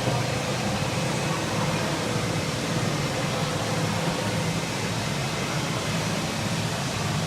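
Bumper boat motor running steadily: a low drone under an even hiss.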